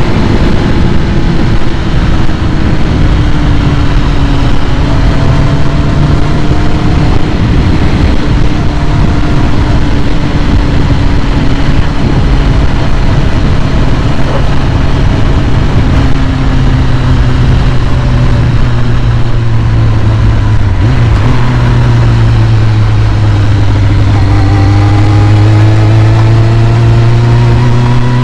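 2001 Kawasaki ZX-6R's carbureted inline-four engine idling steadily while warming up after a cold start. Its idle speed sags slowly, then climbs over the last few seconds.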